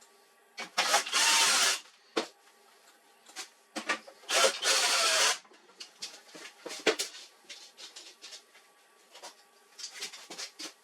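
Two runs of about a second each from a small power tool, among scattered clicks and rattles of parts being handled.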